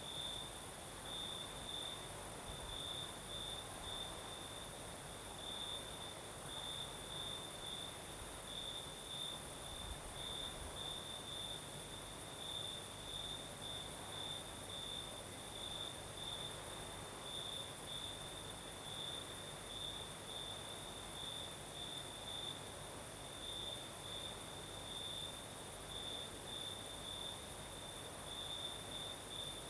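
Field crickets chirping steadily in quick, even pulses, over a continuous very high insect trill. Under them is the soft, even hiss of a night breeze.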